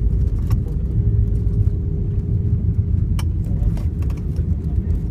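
Jet airliner cabin noise: a steady deep rumble with a constant engine tone through it, and a few short rattles, one of them about three seconds in.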